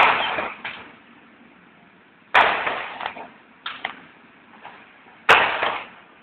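Fireworks going off: three loud bangs a couple of seconds apart, each trailing off over about half a second, with a few smaller pops between them.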